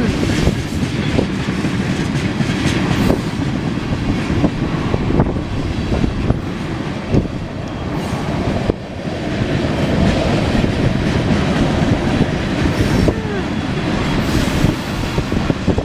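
Cars of a CSX ethanol freight train rolling past: a steady loud rumble with repeated clicks of wheels over rail joints.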